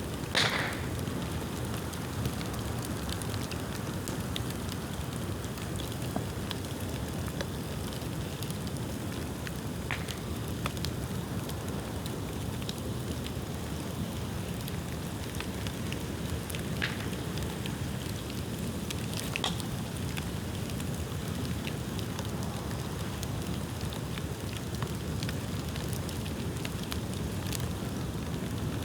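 Bonfire of dry, dead bamboo and bamboo branches burning: a steady crackle broken by occasional sharp pops, the loudest about half a second in.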